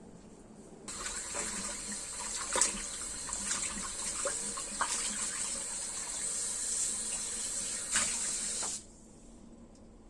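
Kitchen tap turned on and running water into a sink, with a few knocks and clinks in the stream, then shut off sharply near the end.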